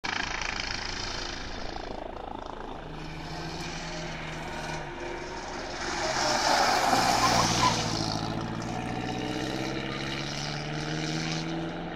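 Engine of a pre-war open racing car running as it drives the course, loudest as it passes close about seven seconds in, its note then rising steadily as it accelerates away.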